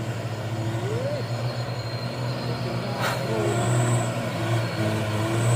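Hino truck's diesel engine running under load with a steady low drone, with a brief sharp hiss about three seconds in.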